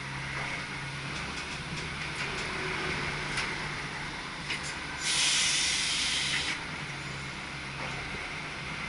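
Cab of an SGM Sprinter electric train: a steady low electrical hum with a few light clicks, and about halfway through a sharp hiss of escaping compressed air lasting about a second and a half that stops suddenly.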